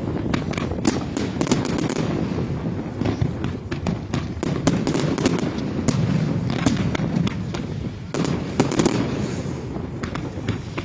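Professional display fireworks going off: a rapid run of sharp bangs and crackles over a continuous low rumble of shell bursts.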